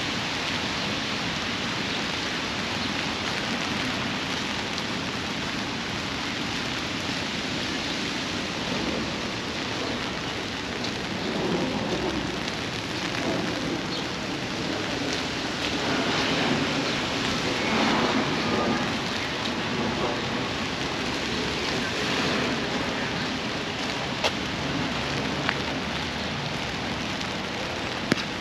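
Steady rain falling, an even hiss that swells louder for a while in the middle, with a few sharp ticks near the end.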